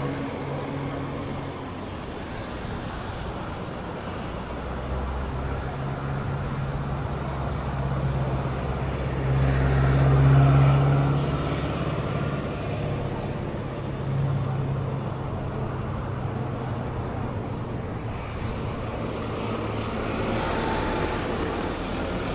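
Road traffic: the steady hum of motor vehicles, with one passing close and loudest about ten seconds in and another smaller swell a few seconds later.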